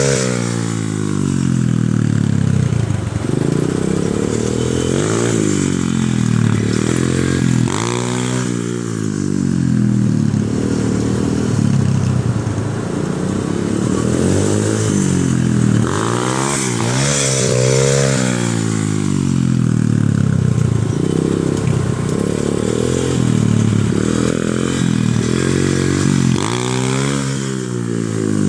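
125cc pit bike's single-cylinder four-stroke engine being ridden, revving up and dropping back over and over as the rider opens and closes the throttle and shifts gears.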